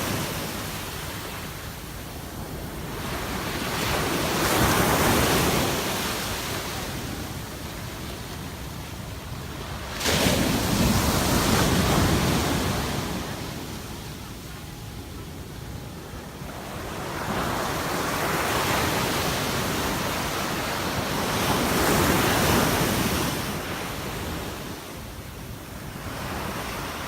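Sea waves washing onto the shore in slow surges every several seconds, one breaking sharply about ten seconds in, with wind blowing on the microphone.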